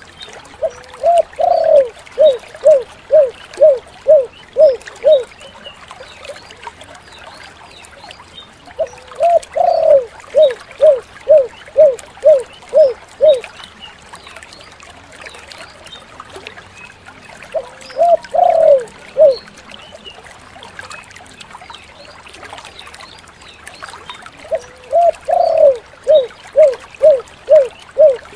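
Spotted dove (tekukur) cooing: four phrases, each a drawn-out rising opening coo followed by a quick run of short, evenly spaced coos, with pauses of several seconds between. The third phrase, about two-thirds of the way in, is cut short after only a few notes.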